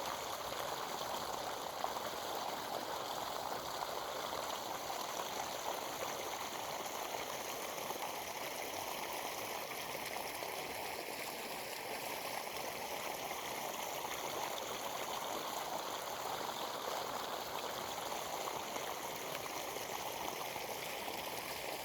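Steady rushing of flowing water, without a break or change.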